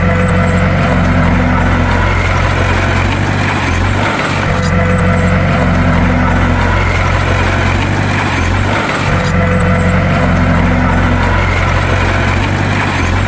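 Bulldozer's diesel engine running steadily with a low drone. The drone dips briefly and comes back in a regular cycle about every four and a half seconds.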